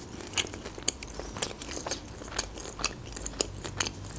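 Close-miked chewing of a flaky pastry with fruit filling, with short crisp crunching crackles a couple of times a second.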